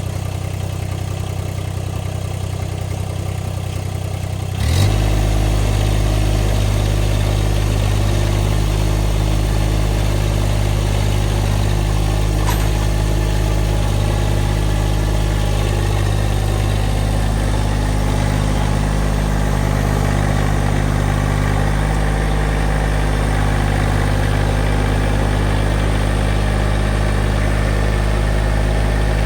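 An engine running steadily at idle, then throttled up about five seconds in and held at a higher, steady speed.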